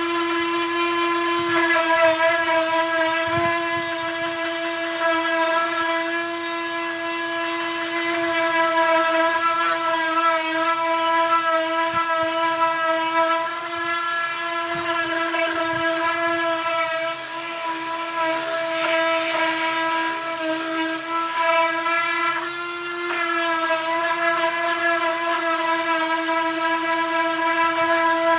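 Electric power sander running steadily on wood, a constant motor whine that dips slightly in loudness now and then as it is worked across the surface.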